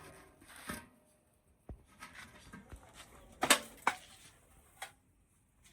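A few short, sharp knocks and clicks, the loudest a pair about three and a half seconds in, with quiet between them.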